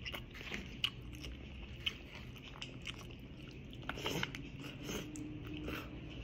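Close-up eating sounds: chewing with scattered short wet clicks and smacks, loudest about four seconds in as a handful of pancit noodles is pushed into the mouth by hand.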